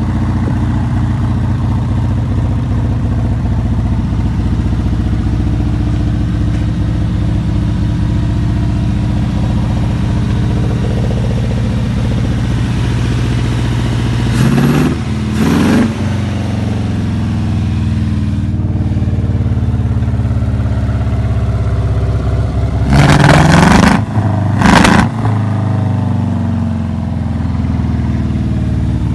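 2.5-litre Land Rover V8 petrol engine in a Ferguson 20 tractor, idling steadily. Twice it is revved with a pair of quick throttle blips, once about halfway through and again, louder, a few seconds later.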